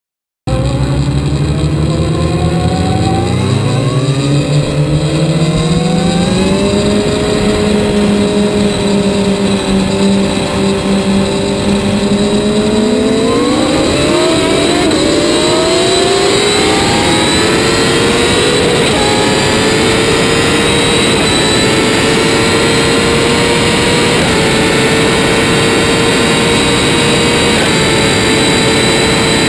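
Inline-four litre sport-bike engine heard from onboard at full throttle, pitch climbing through the gears with quick upshifts in the first several seconds, steadying, then climbing again about halfway and holding high, steady revs near top speed. Heavy wind rush over the microphone under the engine.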